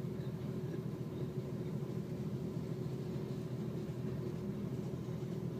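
Freight train rolling slowly past a grade crossing, a steady low rumble, heard from inside a car.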